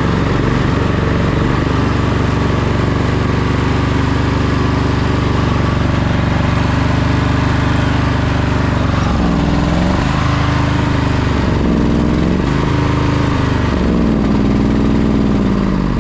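Sabre by John Deere lawn tractor engine running steadily without revving up all the way, then from about nine seconds in its speed repeatedly sags and picks back up, surging. It is starving for fuel: the gas tank is nearly empty.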